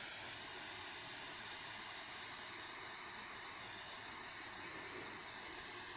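Heat gun blowing with a steady, even hiss, shrinking heat-shrink tubing over the ends of wire connectors.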